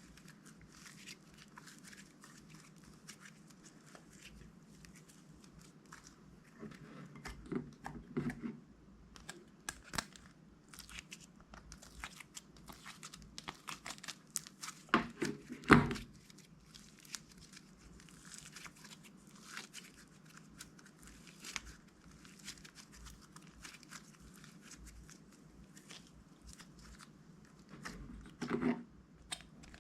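Hands working crunchy slime against crinkly packaging: a stream of small crackles and crinkles, with louder crunching squeezes about a quarter of the way in, just past halfway (the loudest), and again near the end.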